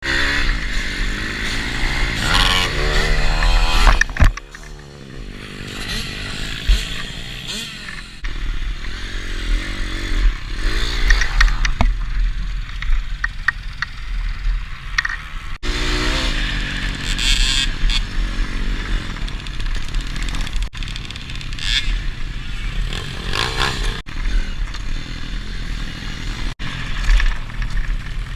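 Pit bike engine being ridden hard, its revs rising and falling repeatedly, with the throttle shut off briefly about four seconds in.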